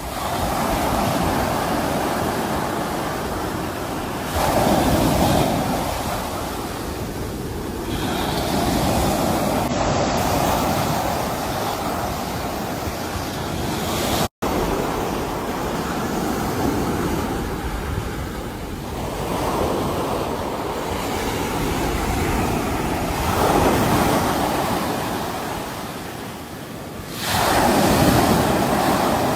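Sea waves washing onto a shore, with a steady rush of surf that swells into louder breakers several times, the biggest near the end. A split-second dropout in the audio comes about halfway through.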